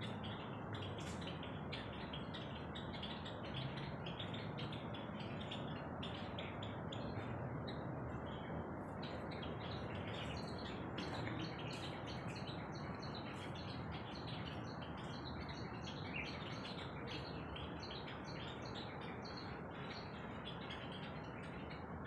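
Many birds chirping continually, short quick calls overlapping one another, over steady background noise.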